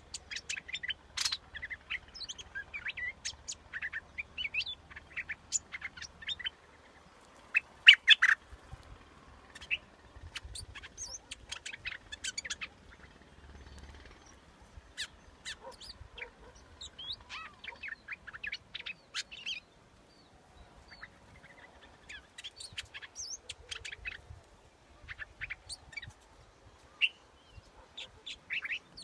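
A bulbul (the yellow 'nok dok taeng') calling: quick runs of short, bright chirps and whistled notes in clusters, broken by a few short pauses. This is the kind of call played as a decoy to lure the same species.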